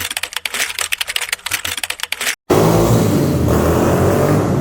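Rapid typing clicks for about two and a half seconds, then after a short break a loud off-road vehicle engine running steadily.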